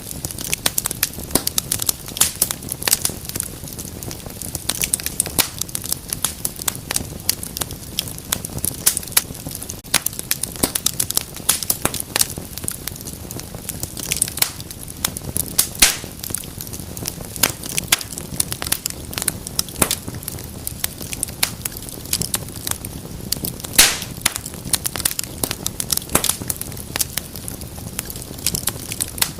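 Wood fire crackling in a fireplace: a steady low rumble of burning with dense, irregular snaps and pops, a few of them sharper and louder.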